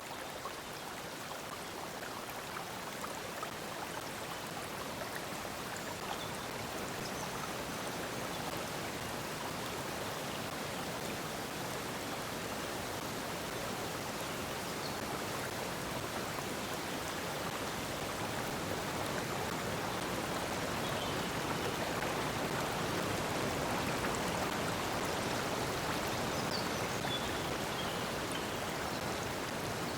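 Stream water flowing and rushing steadily, a continuous even splashing that swells slightly in level toward the second half.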